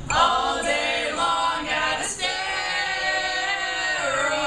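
A group of voices singing a cappella in long, drawn-out notes: one phrase, then a long held note from about two seconds in.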